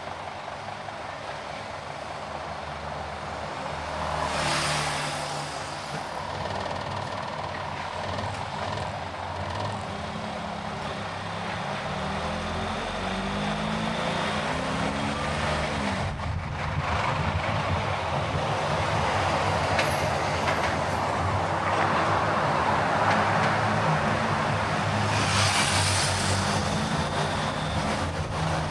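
Car driving in city traffic: a steady engine and road rumble, with the engine note stepping up in pitch about halfway through. Two brief hissing swells come about four seconds in and near the end.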